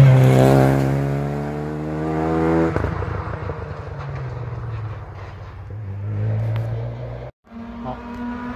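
Rally car engine at full acceleration, loudest at the start, its pitch climbing, then dropping abruptly about three seconds in and running lower as it fades away. After a brief break near the end, another engine is heard, quieter and steady.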